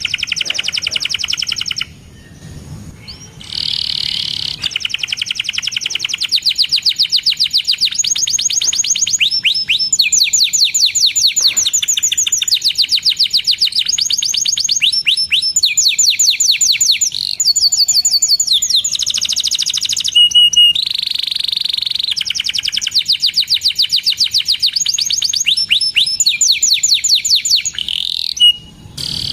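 Domestic canary singing long, fast rolling trills of rapidly repeated high chirping notes, with a short break about two seconds in.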